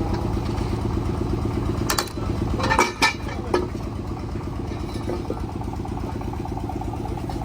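A vehicle engine idling steadily, with a few sharp metallic clanks about two to three and a half seconds in.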